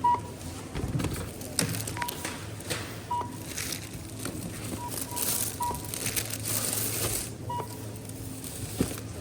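Self-service checkout scanner beeping as groceries are scanned: about six short, high beeps spread a second or more apart. Between them, plastic bags and packaging rustle and crinkle.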